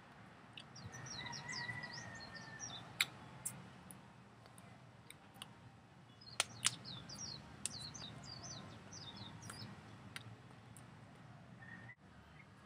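Small birds chirping in two quick runs of short, high notes, with a brief whistled note in the first run and a few sharp clicks between them.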